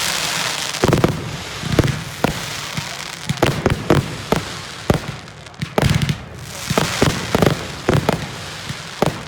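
Fireworks going off: many sharp bangs at irregular intervals over a steady crackling hiss.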